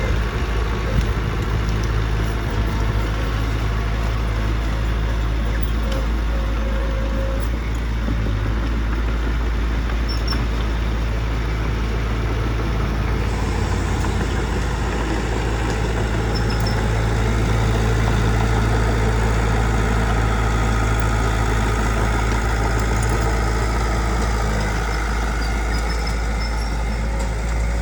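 Diesel engines of heavy road-building machinery, dump trucks and earthmoving machines, running steadily, a little louder for several seconds past the middle.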